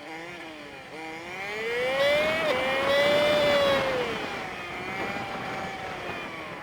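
Honda Super Cub 50's small single-cylinder four-stroke engine, played back fast-forward. Its pitch climbs and falls with the throttle, with a sudden small drop about two and a half seconds in, like a gear change.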